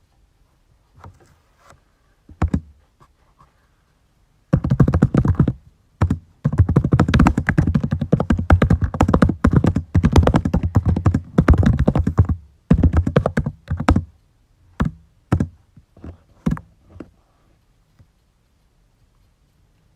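Typing on a computer keyboard: a few scattered keystrokes, then about eight seconds of fast continuous typing, then a few more isolated keys toward the end.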